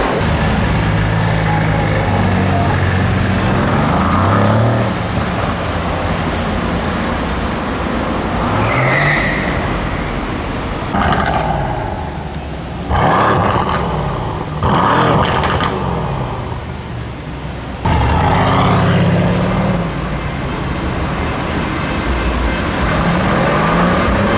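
Performance car engines revving and pulling away, heard in several short cuts, the engine note rising and falling with each rev. A Mercedes-AMG C63's V8 is among them.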